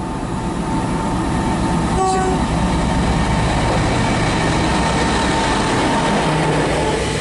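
Class 60 diesel-electric freight locomotive passing through with its train, its engine giving a heavy steady rumble over rolling wagon noise. A short horn note sounds about two seconds in.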